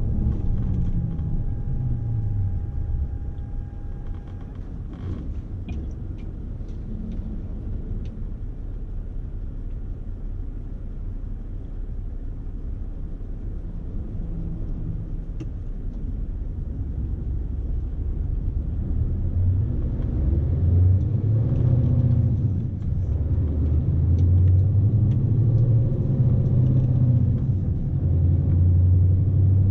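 Scania S520's V8 diesel engine and road rumble heard inside the truck's cab. The engine note falls in the first few seconds, then grows louder and works harder from about two-thirds of the way through, with the truck heavily loaded.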